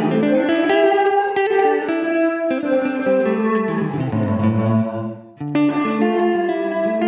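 Electric guitar played through a Poly Effects Poly Verbs impulse-response reverb pedal: chords and picked notes ringing out into the reverb, with a brief dip about five seconds in before a new chord is struck.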